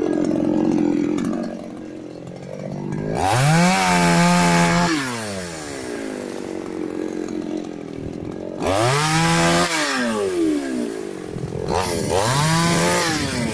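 Chainsaw cutting casuarina wood: the engine revs up to full speed three times, holding each for a second or two with a rasping cutting noise, and drops back to idle in between.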